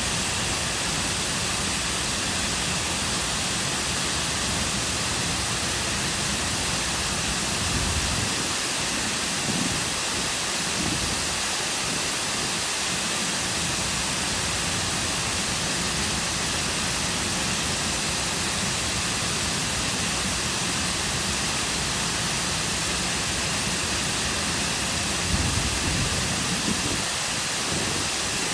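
Cascading waterfall pouring into a lake: a steady, even rush of falling water, with a couple of brief low rumbles about a third of the way in and near the end.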